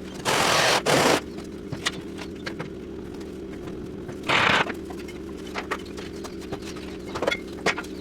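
A machine starts and runs with a steady low hum. Loud hissing bursts come twice near the start and again about four seconds in, with scattered knocks and clanks throughout.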